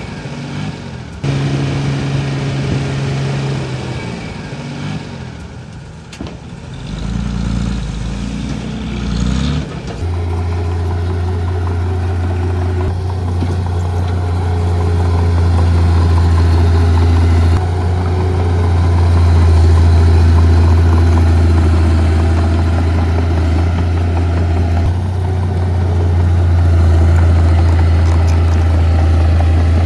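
Heavy diesel earth-moving machinery running. The engine rises in pitch a few seconds in, then after an abrupt change about a third of the way through gives way to a louder, steady, deep engine drone.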